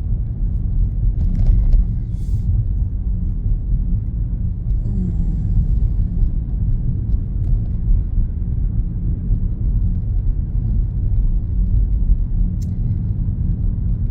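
Steady low rumble of road and engine noise inside a moving car's cabin, cruising at an even city speed.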